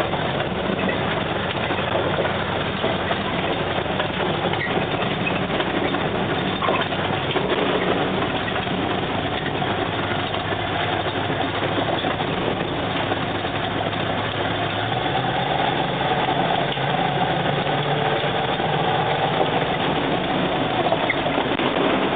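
Homemade truck's engine running steadily while driving, its note shifting slightly upward about two-thirds of the way through.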